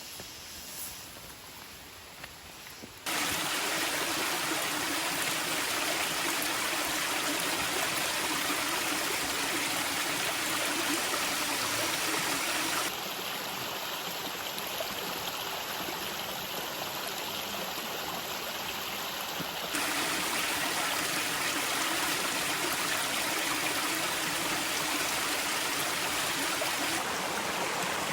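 Steady rushing water of a waterfall, coming in suddenly about three seconds in, dropping somewhat in level around thirteen seconds and rising again around twenty.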